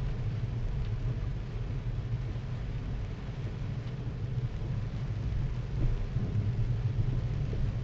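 Car driving in heavy rain, heard from inside the cabin through a dashcam microphone: a steady low rumble of engine and tyres under an even hiss of rain.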